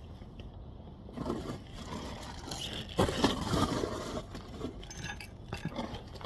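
Metal tools and parts clinking and scraping as they are handled, with a louder burst of scraping about three seconds in.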